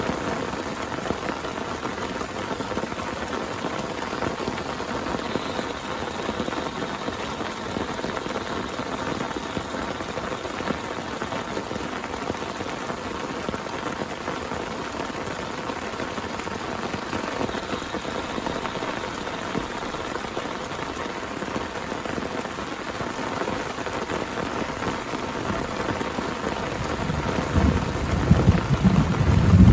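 Heavy rain falling steadily. Near the end a low rumble of thunder sets in and grows louder.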